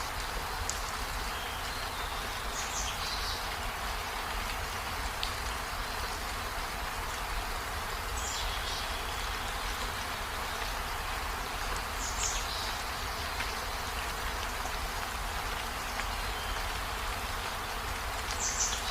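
Steady rain falling, an even hiss with a low rumble beneath it. Four brief high-pitched blips stand out at intervals over the hiss.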